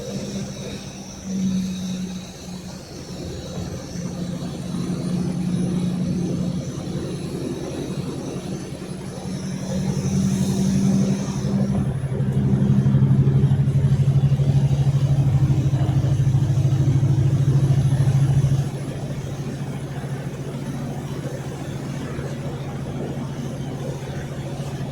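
Car engine running under way, its note shifting; it grows louder about halfway through and holds, then drops back abruptly a few seconds before the end.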